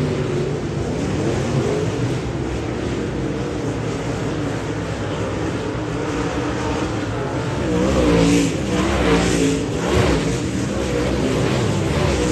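Dirt-track Modified race car engine running hard, its pitch rising and falling with the throttle, swelling louder a little past halfway.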